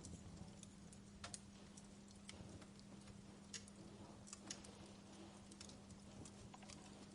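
Wood fire crackling faintly, with irregular sharp pops and snaps over a steady low hum.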